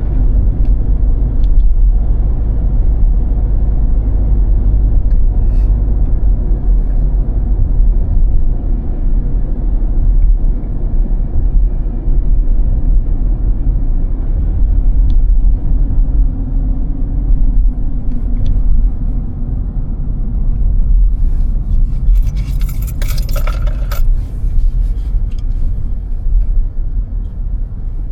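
Car driving on snowy roads, heard from inside the cabin: a steady low rumble of tyres and engine. About three-quarters of the way through, a brief metallic jangling rattle rises over it for a few seconds.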